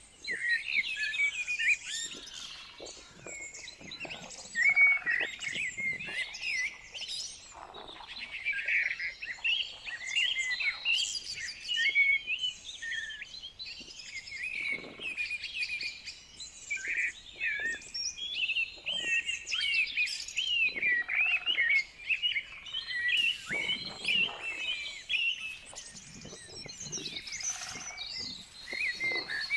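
Several songbirds singing at once, a dense chorus of quick chirps and warbling phrases with no pause.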